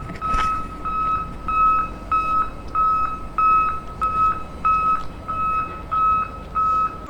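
Vehicle reversing alarm beeping: a steady series of short, even beeps at one pitch, about two a second.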